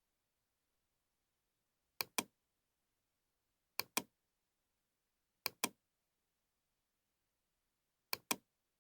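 Computer mouse clicking: four quick double clicks spaced a second or two apart.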